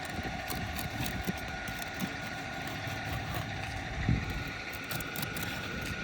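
A tool prying under asphalt shingles to break their adhesive seal strips: irregular scrapes and knocks, the loudest about four seconds in, over a steady mechanical hum.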